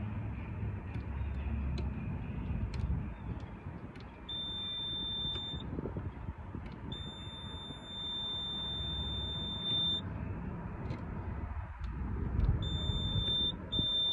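Boat engine panel's warning buzzer sounding in long, steady, high-pitched beeps, one of about a second and a half, then one of about three seconds, then two more near the end, with the ignition on and the engine warming up before it is cranked. Under it a low rumble and a few sharp knocks.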